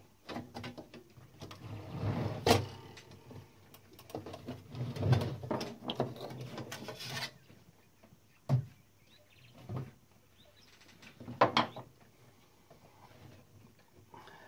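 Metal clicks, scrapes and knocks from the parts of a Klein Adler typewriter being handled as it is taken apart, coming in irregular bursts, with a sharp knock about two thirds in and another a few seconds later.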